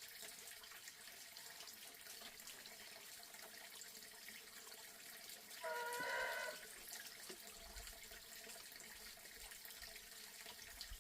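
Faint, steady running water. About six seconds in, a brief high-pitched call with overtones sounds once, lasting under a second.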